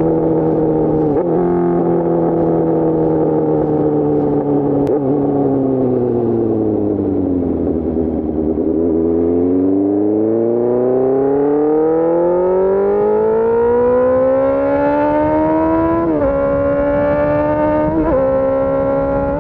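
Suzuki GSX-R600 K4 inline-four through an SC-Project race exhaust. The engine note falls for about eight seconds as the bike slows, then climbs steadily under acceleration. Near the end it drops sharply twice as the rider shifts up.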